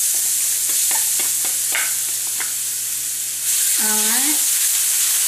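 Minced garlic sizzling in hot oil in a wok, with a few short scrapes of the spatula as it is stirred. The sizzle gets louder about three and a half seconds in.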